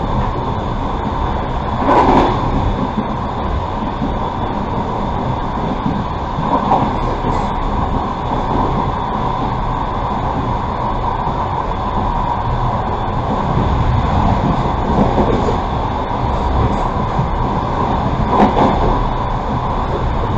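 Passenger train running along the track, heard from inside a carriage: a steady rumble of wheels on rail, with brief louder surges about two seconds in and near the end.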